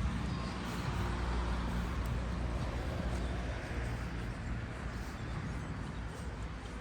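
Road traffic: a motor vehicle's engine running close by, a steady low rumble that eases slightly towards the end.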